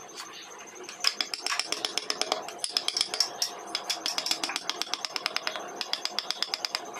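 Rapid light tapping of a hand carving tool on wood, several sharp taps a second, starting about a second in and thinning out near the end.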